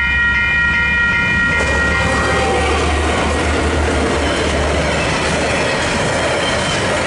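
Level crossing warning bells ringing in a steady pulse, drowned out about two seconds in as a diesel-hauled freight train passes close by. The locomotive's engine rumbles low, followed by the rushing clatter of container wagons on the rails, with a thin high wheel squeal from about five seconds in.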